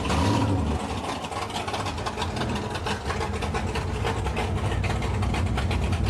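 Drag-racing cars' engines running at idle, with a rapid, lumpy exhaust beat that grows steadier after about two seconds.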